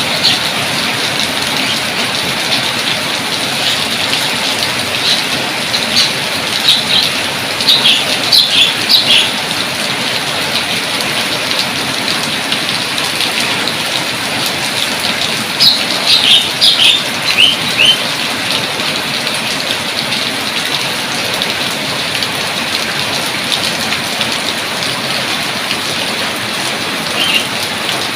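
Steady heavy rain falling. A bird calls over it in two bursts of short chirps, about six seconds in and again around sixteen seconds, with a faint call near the end.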